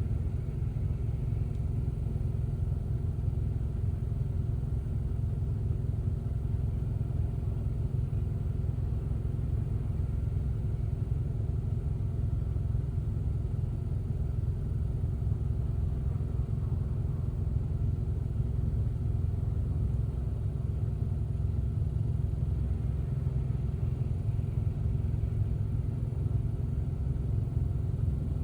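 Steady low rumble of a car driving, unchanging throughout.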